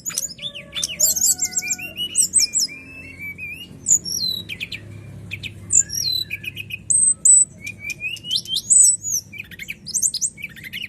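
Brown-chested jungle flycatcher singing: a busy string of clear whistles, quick trills and notes sliding up and down.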